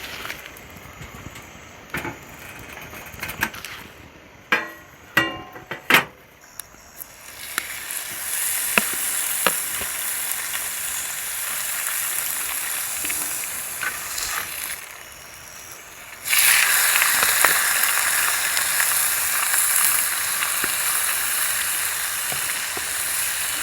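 Beef sizzling over a wood campfire. A few sharp clicks and knocks come first, then a steady sizzle starts about seven seconds in and jumps louder about sixteen seconds in.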